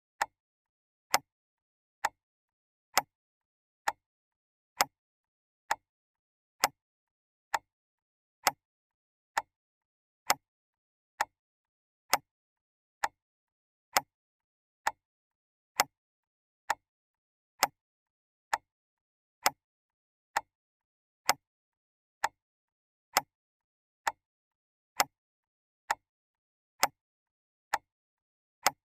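Clock ticking steadily: single sharp ticks a little under a second apart, with silence between them.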